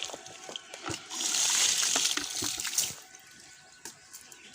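Water splashing and sloshing, with a burst of heavier splashing from about one to three seconds in and scattered drips and small splashes around it.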